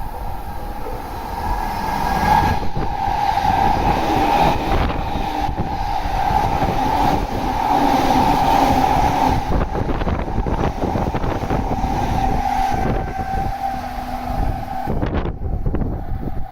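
An electric train running through a station at high speed without stopping. It makes a loud rolling rush with a steady high ring and a quick run of clacks as the wheels cross rail joints. The noise builds over the first couple of seconds and cuts off sharply about fifteen seconds in as the last car clears.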